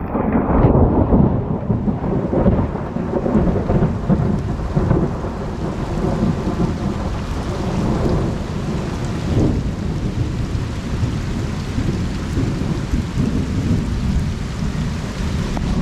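Thunder rumbling, starting suddenly and rolling on for many seconds, over steady rain falling on the pond and its surroundings.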